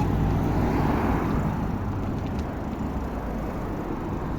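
Steady outdoor road noise: a low rumble with hiss from traffic, slowly getting quieter.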